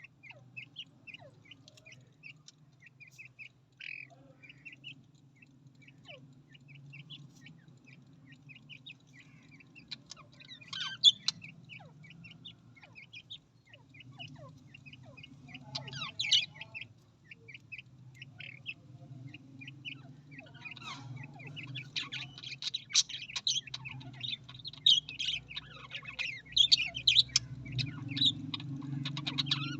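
Budgerigars chirping and chattering in short high notes, scattered at first and building into dense, busy chatter over the last ten seconds or so, with a steady low hum underneath.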